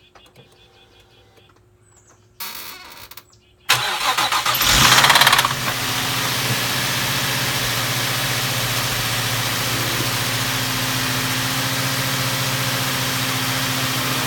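Nissan 350Z's 3.5-litre V6 cold-starting about four seconds in, running rough and loud for the first two seconds or so with the knocking noise that the owner hears only on a cold start, then settling into a steady idle. A short burst of noise comes a little before the engine catches.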